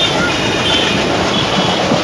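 A passenger train running on the track, heard from inside a moving coach: a steady, loud rumble and rattle of wheels on rails, with short high-pitched squeals a few times.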